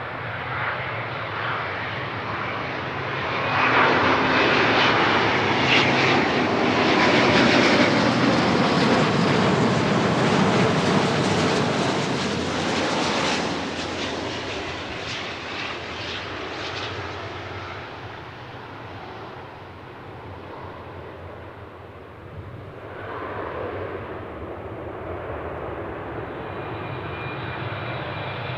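Jet airliner passing: its engine noise swells loud a few seconds in, holds for about ten seconds, then fades away. A second, quieter swell of jet noise comes near the end.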